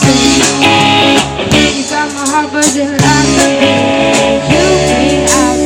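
Live band playing an instrumental passage: bending melodic lines over a steady drum beat, with no sung words.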